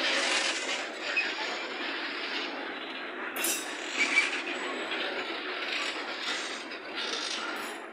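Freight train of boxcars rolling past close by: steel wheels running and clattering on the rails in a steady rush of noise. There are short high wheel squeals, the loudest about four seconds in.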